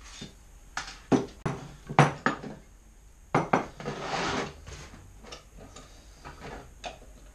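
Metal clanking and knocking as the exhaust can and its parts are handled and set in place: a run of sharp knocks, then a short scraping rasp about four seconds in, then a few lighter clicks.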